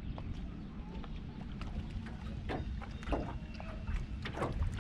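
Low steady rumble of wind on the microphone, with a few light knocks and taps scattered through it.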